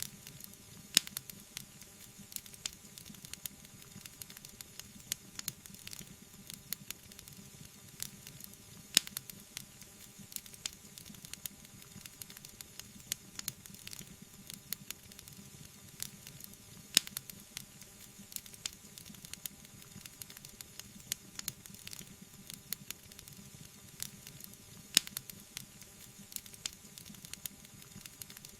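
Wood fire crackling in a fireplace: a constant soft hiss and bubbling with dense small ticks, and a sharp louder pop about every eight seconds.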